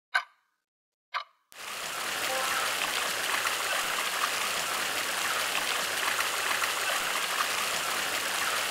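Sharp ticks about once a second, then, about a second and a half in, a steady rushing noise comes in and covers them. This is a demonstration of sound masking.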